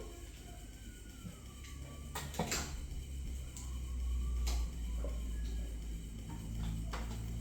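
Plastic Lego pieces clicking and clattering as someone rummages through them for a part, with several sharp clicks over a low rumble.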